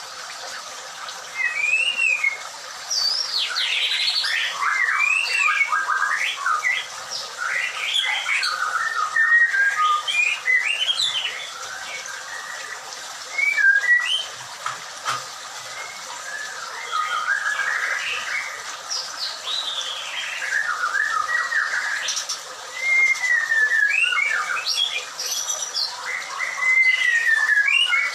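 White-rumped shama calling and singing: varied whistled notes that sweep up and down in pitch, coming in bouts with short pauses between.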